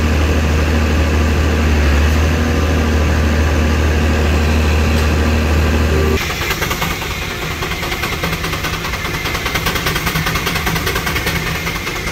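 Engines running steadily: a deep, even drone for about six seconds, then an abrupt change to a different engine sound with a fast, regular pulse.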